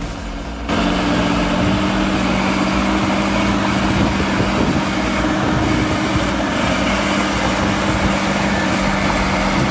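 Bulldozer's diesel engine running steadily under load: a loud, even rumble with a steady low hum, cutting in abruptly just under a second in.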